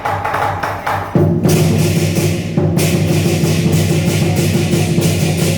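Chinese lion dance percussion: drum and clashing cymbals beating fast, swelling into a louder, denser ringing about a second in.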